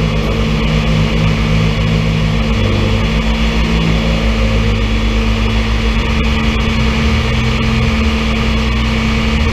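Vehicle engine running steadily at a low, even note.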